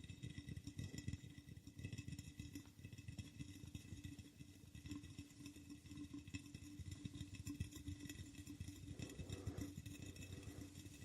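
Quick, soft tapping on an object, many light taps a second with no pause, under a faint steady hum.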